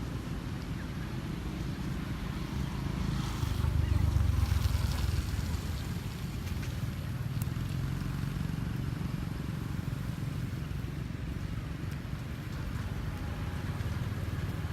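Wind buffeting the microphone: a steady low rumble that swells in a stronger gust about four seconds in, with a faint hiss above it.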